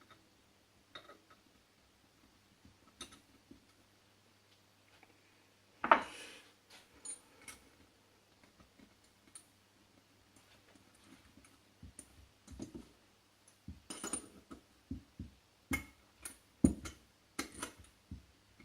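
Small metal clicks and clinks of bolts being handled and tried in the threaded holes of a KKK K03 turbocharger, with one sharper knock about six seconds in and a quicker run of clicks near the end. The bolts do not thread in: the holes need their threads cleaned.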